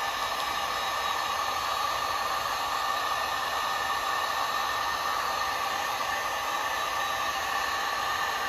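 Electric heat gun running steadily, a constant rush of blown air with a fan whir, used to soften an old curled vinyl decal.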